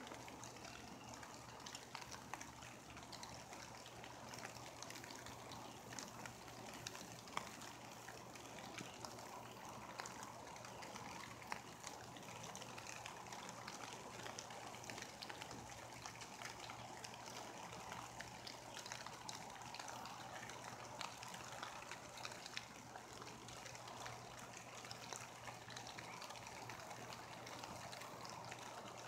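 Light rain falling, a faint steady patter with scattered sharper drips.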